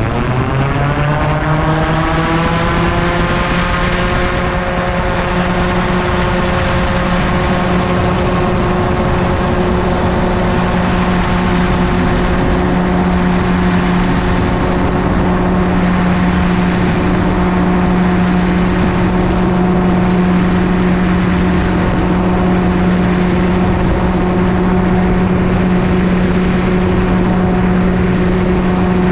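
Gyroplane engine and pusher propeller rising in pitch over the first couple of seconds as the throttle is opened, then running steadily at high power over a constant rush of airflow.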